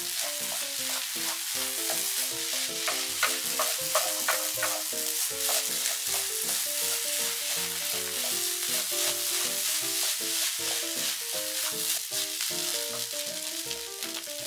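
Fried rice with scrambled egg sizzling in a nonstick frying pan while a wooden spoon stirs it, scraping and knocking against the pan in frequent short clicks. Soft background music plays underneath.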